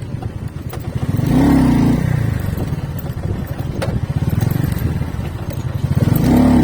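Motorcycle engine running on the move, with a pitched engine note swelling louder twice, about a second in and again near the end.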